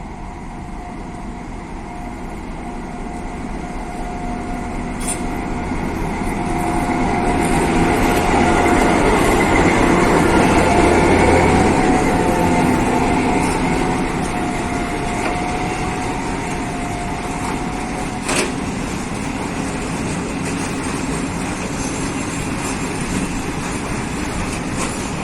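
Freight train passing: a locomotive's rumble builds and peaks about ten seconds in, with a steady whine over it. The wagons then roll by in a steady rumble, with a couple of short knocks.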